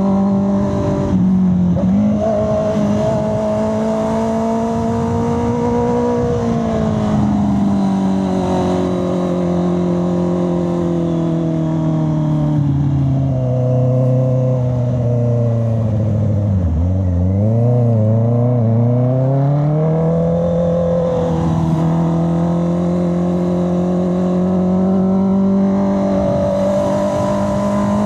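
Honda CB650R's inline-four engine running under way, its note steady at first, then falling in pitch as the revs drop through the middle. The pitch wavers up and down a few times before climbing back to its earlier note and holding steady again.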